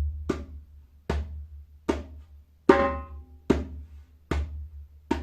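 Djembe played by hand, seven slow single strokes about 0.8 s apart: three medium strokes, a high stroke that rings on with a clear pitch, then three more medium strokes. This is the end of one slow pass of a basic rhythm built from bass, medium and high strokes.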